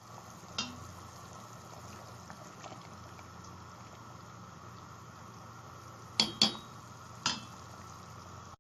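Meatballs and red sauce cooking in a pan, with a steady bubbling hiss. A metal utensil clinks against the pan about half a second in and three more times near the end.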